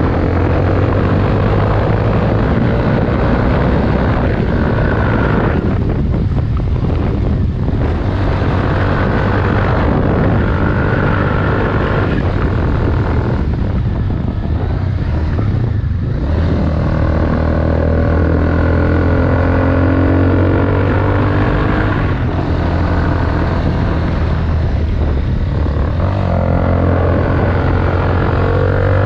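Honda CBR250R single-cylinder engine running through an aftermarket Delkevic exhaust with the dB killer baffle removed, giving a loud, unbaffled exhaust note. The engine pitch rises and falls slowly, with brief drops in level around a quarter and halfway through.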